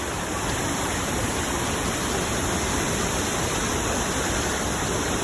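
Tad Yueang waterfall: a steady, even rush of falling water.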